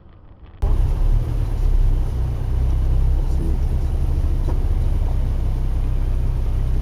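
Steady low rumble of a car on the move, road and engine noise, starting abruptly about half a second in.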